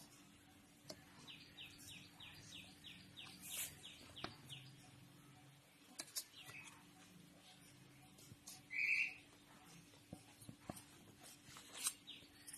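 Faint bird chirping: a quick run of about ten short falling notes a second or so in, and one short louder chirp about nine seconds in. Scattered light clicks of a knife against a steel plate as the cake is cut.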